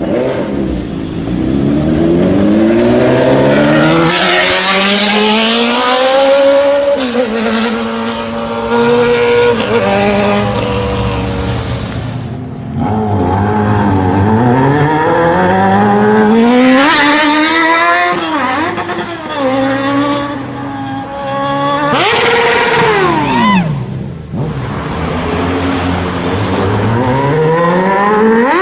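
Sport motorcycles accelerating hard, several in turn, engine pitch climbing, dropping briefly and climbing again as they shift up through the gears. Near the end one engine's pitch falls sharply as it goes by.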